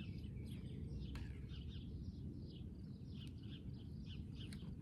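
Birds chirping repeatedly, many short high notes, over a steady low rumble, with a few sharp clicks.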